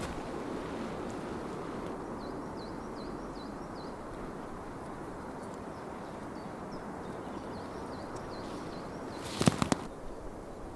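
A small bird calling two runs of short, high, downward-sweeping chirps over a steady outdoor background rush. A cluster of sharp knocks about nine and a half seconds in is the loudest sound.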